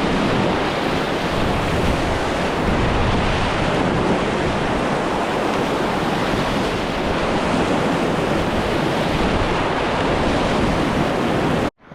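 Loud, steady rush of whitewater rapids, with wind on the microphone; it cuts off suddenly near the end.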